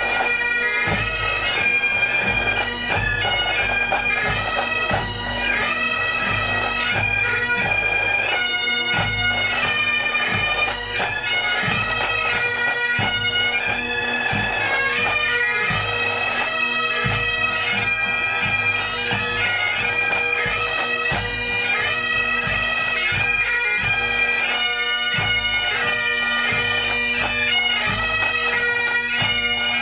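Two pipe bands playing together. Massed Highland bagpipes sound a melody over a steady, unbroken drone, with a repeated low drum beat underneath.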